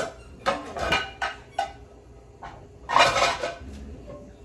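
Pots and pans knocking and clattering together as a frying pan is pulled out from among other cookware. There are several sharp clanks in the first second and a half, then a longer clatter about three seconds in.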